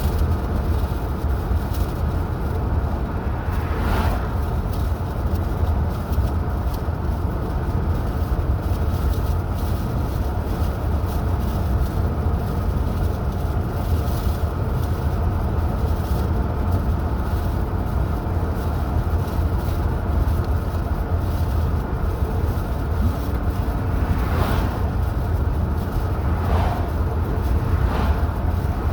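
A car driving at a steady pace: an even low rumble of engine and road noise with no change in speed.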